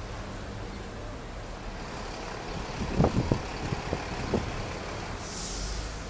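Street traffic running with a steady low rumble; about halfway through comes a quick run of several short knocks or thumps, and near the end a brief hiss.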